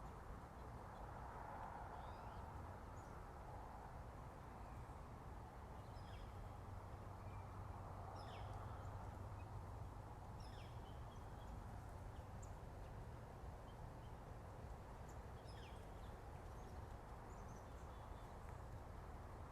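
Faint, scattered short chirps of wild birds, several sliding downward in pitch, over a steady background hiss.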